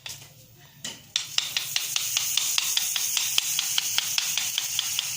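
Kue karah batter frying in hot oil: a steady sizzling hiss starts about a second in, with light clicks repeating about five times a second over it.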